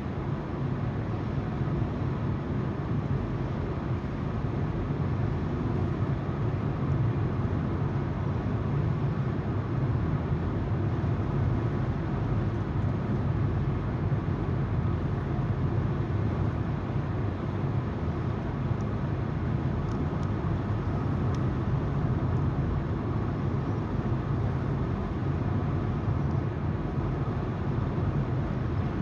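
Steady road noise inside a moving car: the tyres rolling on the road and the low hum of the engine.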